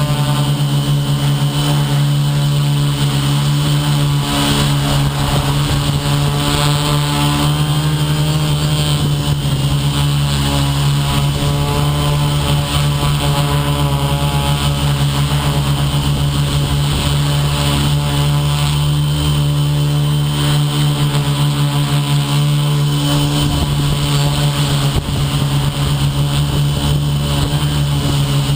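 Electric motor and propeller of an FPV model aircraft running steadily in flight, heard from the GoPro on board: a steady hum with a stack of overtones over a hiss of air.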